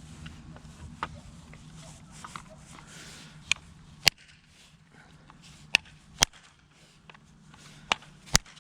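A series of sharp, irregularly spaced knocks and clicks, about seven in all, over a faint low hum that stops about four seconds in.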